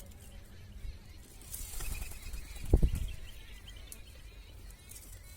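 Faint bird chirping over a steady low rumble of wind or handling noise on the microphone, with one loud low thump a little before the middle.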